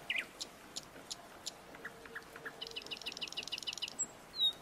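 Small birds chirping: scattered short, sharp chirps, a rapid buzzy trill of about ten notes a second midway, and two quick down-slurred whistles near the end.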